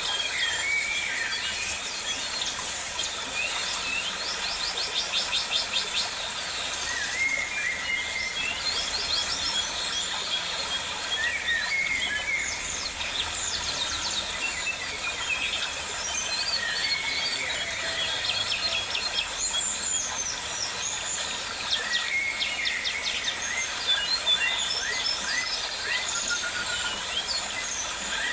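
Several birds calling over one another: short chirps and whistles that glide up and down, with a quick rattling trill about four to six seconds in.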